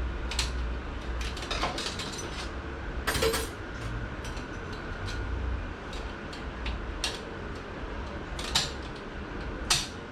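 Steel transmission parts clinking and clicking as a thicker snap ring is fitted into a Ford AOD clutch drum with 4R70W clutches and the clutch pack is checked for play. The clicks are scattered, with a longer metal clatter about three seconds in and two sharp clinks near the end.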